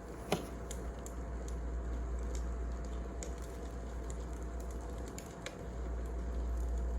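Wood fire crackling: scattered, irregular light pops and clicks over a steady low rumble, with one sharper pop just after the start.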